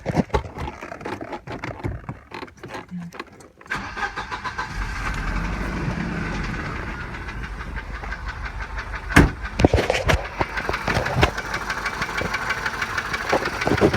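1987 Volvo 740 Turbo's turbocharged four-cylinder engine starting about three and a half seconds in after some clicks, then running rough on three cylinders because of a faulty spark plug wire, with a few sharp knocks in the middle. The owner hears a knock loudest at the oil pan, which a shop diagnosed as low-end piston slap.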